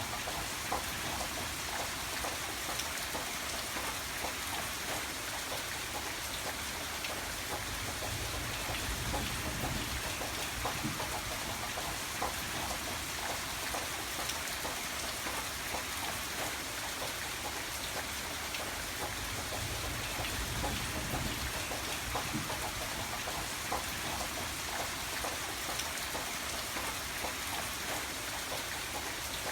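Steady rain falling, with many small individual drops pattering on a surface over a low background rumble.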